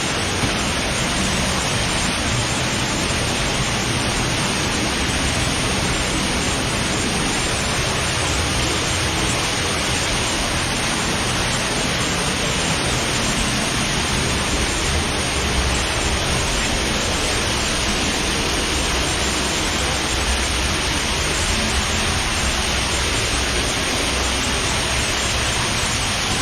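Loud, steady rush of an underground waterfall in a cave stream passage, running at high flow.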